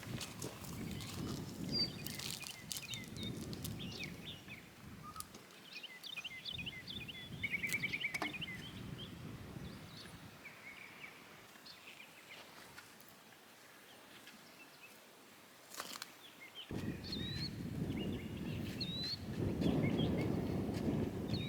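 Small birds chirping and calling, with a rapid trill about eight seconds in, over a low rushing noise that grows louder in the last few seconds. A few sharp clicks.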